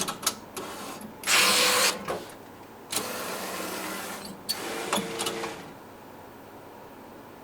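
Printer running as it prints a photo for a puzzle: a series of mechanical whirs and clicks, the loudest about a second and a half in. It settles to a low hum for the last second or so.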